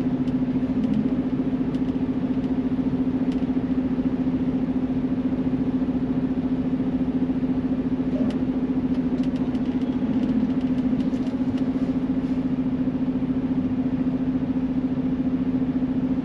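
Semi-truck's diesel engine running steadily at a constant low speed, a continuous even hum heard from inside the cab.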